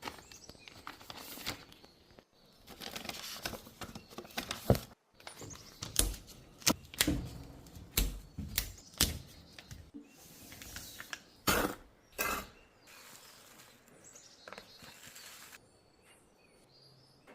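Irregular sharp knocks and clicks, about a dozen strong ones clustered from about six to twelve seconds in, with softer rustling and clatter between them.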